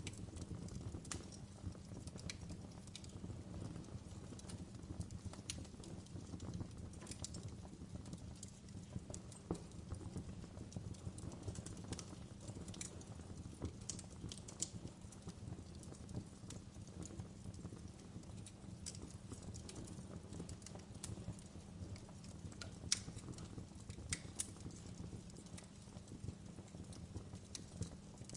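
Wood campfire burning: irregular sharp crackles and pops, a few a second, over a steady low rumble of the flames.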